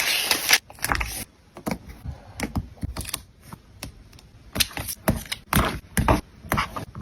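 Close-up paper and stationery handling while journaling: a scraping sound that stops about a second in, then a run of light, irregular clicks and taps.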